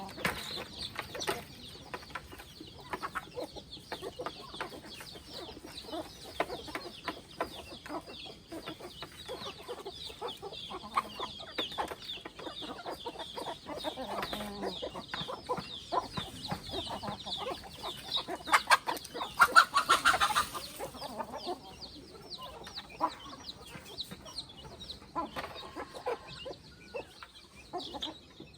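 A flock of free-range chickens clucking, over a dense run of short, high calls and many small clicks. The calls get louder in a burst about two-thirds of the way through.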